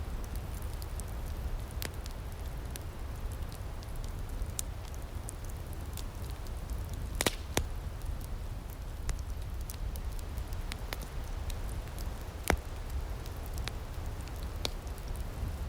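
Outdoor wood fire crackling, with scattered sharp pops over a steady low rumble; a few louder pops around seven seconds in and twelve and a half seconds in.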